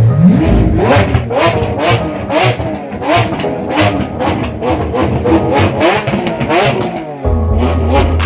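Car engine revving, a rise in pitch at the start and then repeated short revs, over a song with a steady beat.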